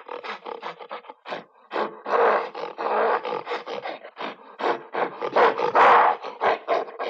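An animal calling: a run of short, rough calls broken by longer drawn-out ones.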